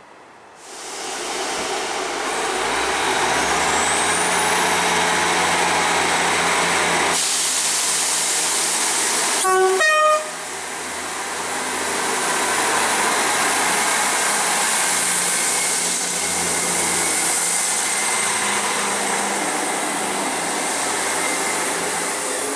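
Class 158 diesel multiple unit running along the platform, its engines and wheels making a steady rumble. About ten seconds in it sounds its two-tone horn briefly, a low note then a high one.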